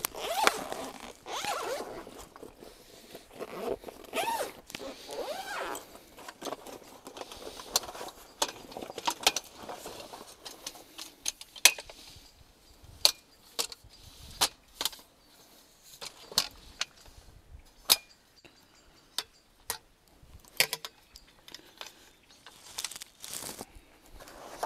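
A zipper pulled in several quick strokes, then many scattered sharp clicks and knocks.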